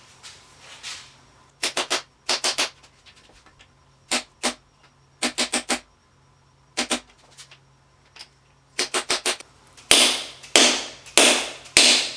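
Hand ratchet wrench clicking in short bursts of three or four strokes, over and over, as bolts are worked loose on the engine. Near the end come several louder hissing bursts, each about half a second long and fading away.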